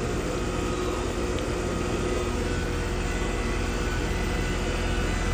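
Carrier heat pump outdoor unit running with a steady hum from its condenser fan and compressor. The compressor is spinning but not compressing, a mechanical failure.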